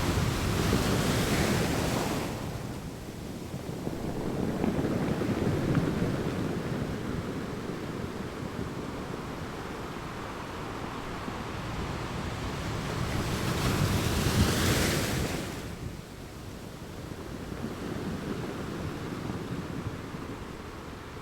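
Ocean waves breaking, the wash swelling and ebbing with no tones. Two big breaks stand out, one at the start and a louder one about two-thirds of the way through, with softer surges between.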